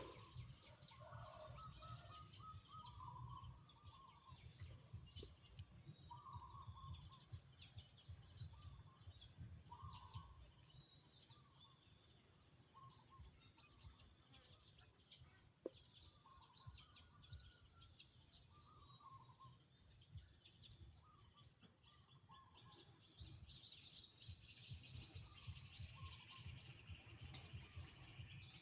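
Many small birds chirping and chattering faintly, a dense run of quick high notes, with a lower call repeating every few seconds and a low rumble underneath.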